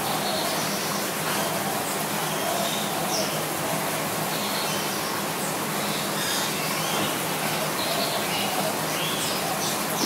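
Short, scattered bird chirps over a steady noisy background with a low hum.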